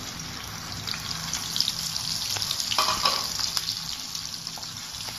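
Sliced onion, green chillies, crushed garlic and cumin seeds sizzling in hot oil in a wok: the tempering (phoron) frying. A steady hiss with light crackles grows louder about a second and a half in.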